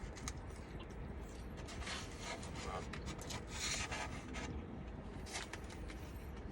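Faint eating noises: rustling and rubbing sounds as a chicken slider is handled and chewed, coming in a few short bursts over a steady low rumble.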